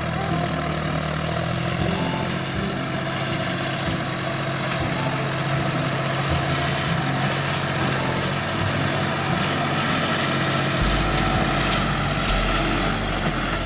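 Tractor engine running steadily, with a deeper low rumble coming in about eleven seconds in.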